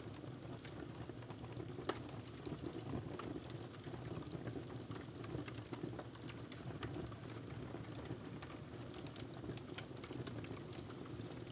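Wood fire crackling in a fireplace: a steady low rumble of flames with frequent small pops and snaps, and one sharper pop about two seconds in.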